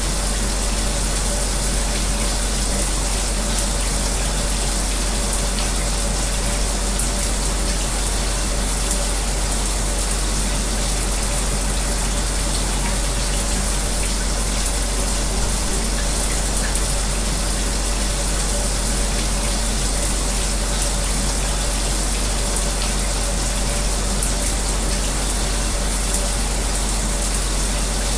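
A shower running steadily, its falling spray making an even hiss, blended with the constant hum of an electric fan.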